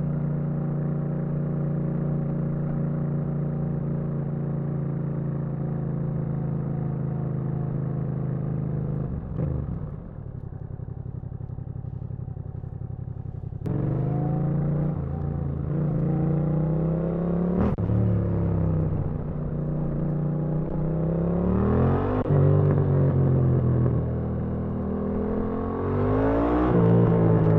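Yamaha MT-07's parallel-twin engine running at a steady note, then dropping to a lower, quieter note about a third of the way in. About halfway it gets suddenly louder and pulls away, the revs rising three times, each rise cut off by an upshift to a lower note.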